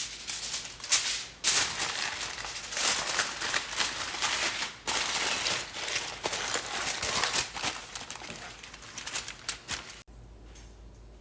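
Aluminum foil crinkling as it is pulled out, torn and pressed over a plate, in irregular crackly bursts that stop abruptly about ten seconds in.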